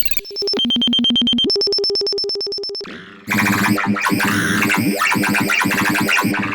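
Roland System-100 software synthesizer presets being auditioned. First comes a buzzy tone that drops in pitch, steps back up and fades out at about three seconds. Just after it a second patch starts, dense and noisy with a wobbling texture.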